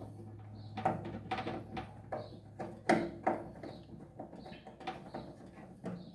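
Irregular light clicks and taps of a screwdriver and hands working a screw out of a microwave oven's panel, with the oven being handled.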